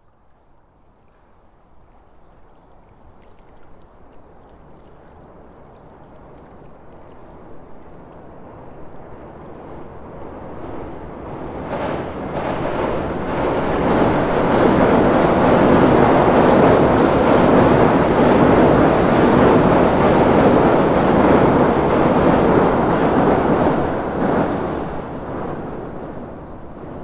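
Train crossing a steel railway bridge, heard from beneath the spans. Its noise builds slowly, is loudest for about ten seconds through the middle, then fades away near the end.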